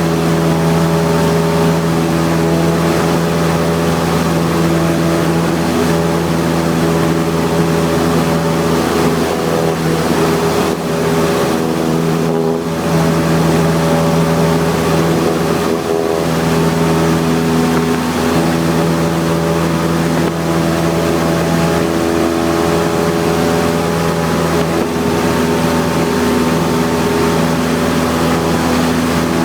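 Cessna 172's piston engine and propeller running steadily, a constant drone heard inside the cabin, with small shifts in pitch now and then.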